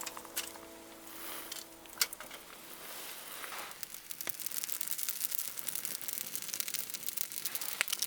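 Wood campfire crackling with many rapid small pops and one sharp snap about two seconds in; the crackling grows thicker and louder over the second half, under faint background music that fades out early on.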